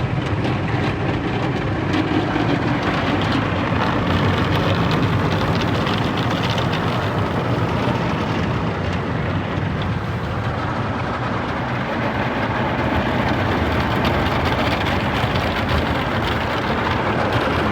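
Spinning brushes of a MacNeil tunnel car wash scrubbing a van, with water spray, heard from inside the van's cabin as a steady swishing wash noise.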